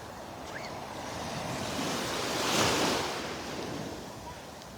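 A small Gulf of Mexico wave breaking and washing up the beach: a rush of surf that builds to a peak about two and a half seconds in, then fades.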